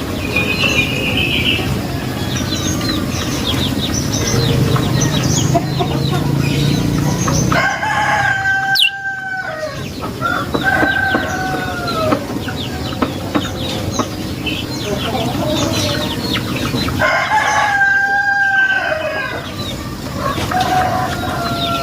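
A rooster crowing twice, about eight and seventeen seconds in, with a shorter crow-like call in between. Under it, a small songbird, the prenjak lumut, keeps up rapid high chattering chip notes throughout.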